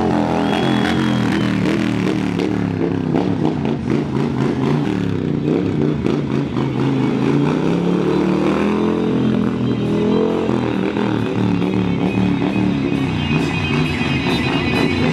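Harley-Davidson V-twin motorcycle engine revving up and easing off again and again during a stunt run, with music playing over it.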